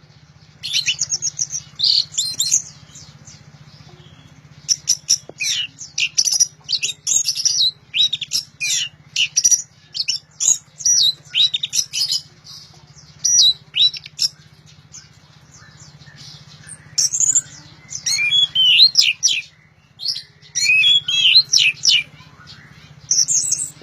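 Orange-headed thrush (anis merah) singing loudly in full song: rapid runs of high, shifting notes in bursts of a second or two, with short pauses between them, over a steady low hum.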